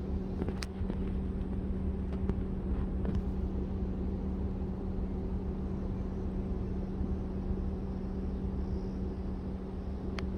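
Vehicle engine idling: a steady low rumble with a constant hum, with a sharp click about half a second in and another near the end.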